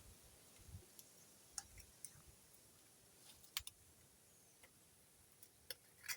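Near silence with a few faint, irregular sharp clicks and ticks.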